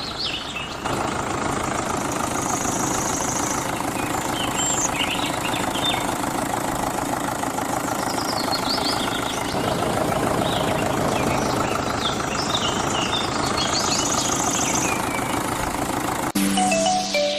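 Small electric motor of a homemade model tractor running steadily with a dense buzz, while birds chirp now and then. Music cuts in near the end.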